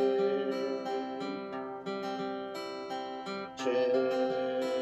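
Acoustic guitar playing a plucked, strummed accompaniment, with a sung voice holding long notes and sliding up into a new phrase about three and a half seconds in.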